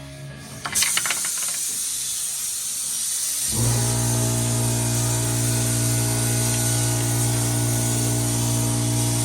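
A steady hiss that starts suddenly about a second in, with a few clicks, joined about three and a half seconds in by a steady low machine hum.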